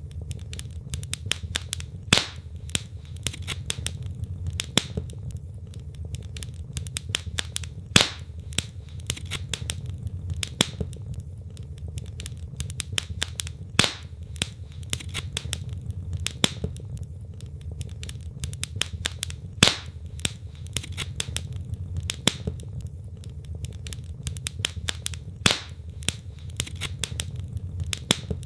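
Wood fire in a fireplace crackling: burning logs give irregular snaps and pops, with a louder pop about every six seconds, over a steady low rumble.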